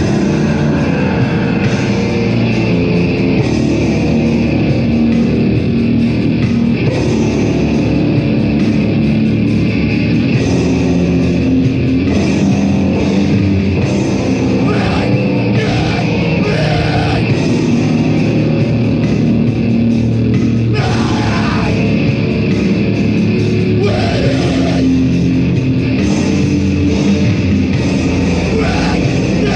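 Live heavy metal band playing loud, distorted guitar over a dense, unbroken wall of sound.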